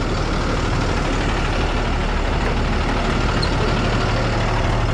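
Hino rollback truck's diesel engine idling steadily.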